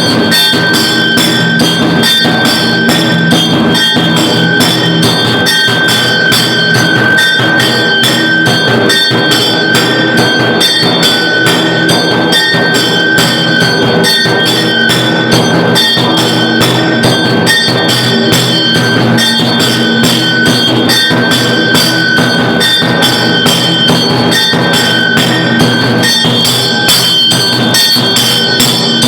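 Electric aarti machine ringing temple bells and beating drums together in a fast, steady, unbroken rhythm of strikes.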